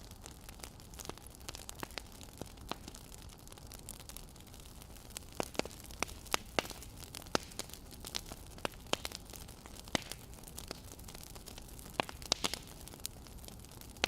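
Wood fire crackling: irregular sharp pops and snaps over a low, steady hiss, coming more often and louder about halfway through.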